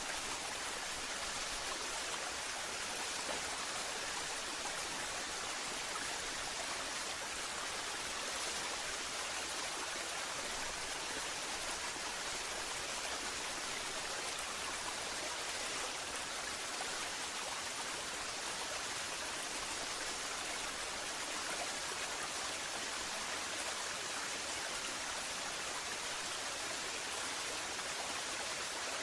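Waterfall: water falling and rushing in a steady, even hiss with no change.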